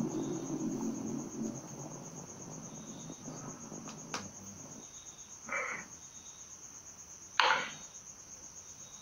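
Crickets chirping in a steady, fast, high trill. Over it come a few brief louder noises, the sharpest about seven and a half seconds in.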